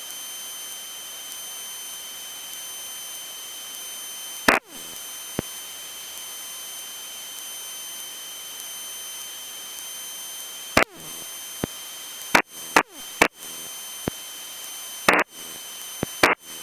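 Aircraft headset intercom feed: a steady hiss with a thin high whine, broken by sharp clicks, one about four and a half seconds in and a cluster of them over the last six seconds.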